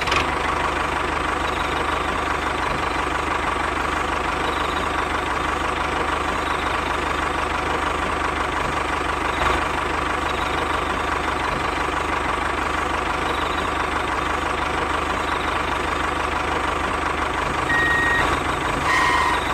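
A small motor running steadily for the whole stretch, without speeding up or slowing down. Two brief high beeps come near the end.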